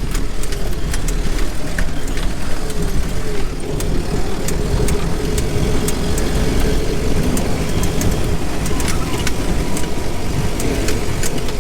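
Land Rover Series IIA driving along a rough back-country track: a steady engine and drivetrain rumble with scattered sharp clicks over it.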